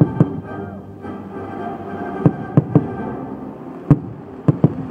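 Fireworks shells bursting in about eight sharp bangs, some in quick pairs, over orchestral music.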